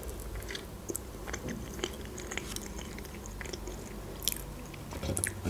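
A person chewing a mouthful of soft cake close to the microphone: quiet mouth sounds with a few small clicks.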